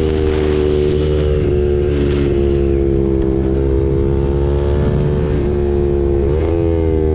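KTM RC 390's single-cylinder engine through an SC-Project aftermarket exhaust, running at fairly steady riding revs. Its pitch shifts slightly with the throttle and rises a little near the end.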